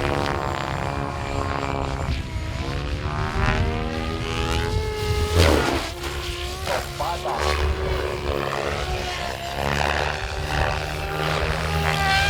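Goblin 700 radio-controlled helicopter in aerobatic flight, its rotor and drive whine rising and falling in pitch again and again as it manoeuvres.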